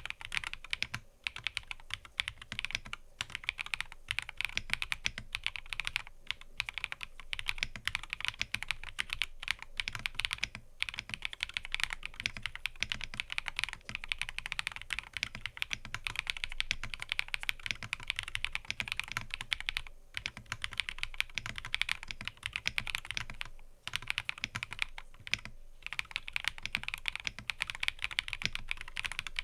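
Fast, continuous typing on a mechanical keyboard: a dense run of key clicks with brief pauses every few seconds.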